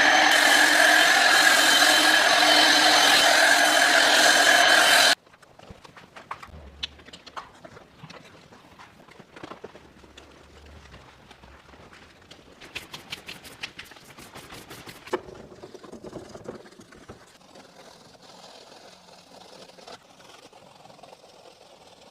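A loud, steady electric machine with a whining motor runs for about five seconds and then cuts off abruptly. After that come quieter scrapes and knocks, with a run of quick, even strokes, about four a second, in the middle.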